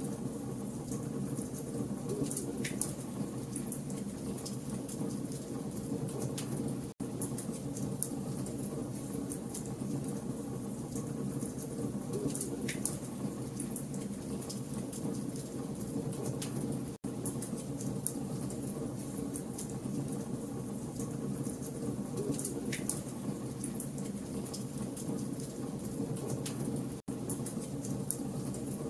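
Campfire of burning logs crackling: a steady rushing noise with frequent small snaps and a louder pop about every ten seconds. The sound cuts out for an instant three times, about ten seconds apart.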